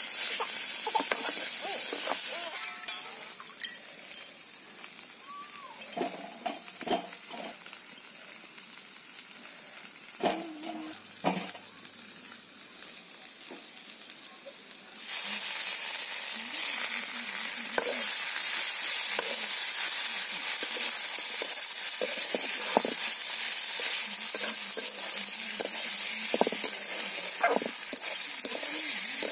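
Cauliflower, potato and tomato pieces sizzling in hot oil in a kadai, stirred and scraped with a flat metal spatula. The sizzle drops away for a stretch in the first half, leaving a few clinks and knocks, then comes back loud about halfway through with steady scraping.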